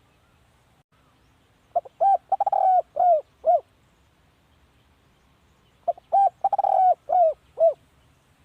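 Spotted dove cooing: two calls about four seconds apart, each a short run of low coos with a longer rolling note in the middle, ending in two falling notes.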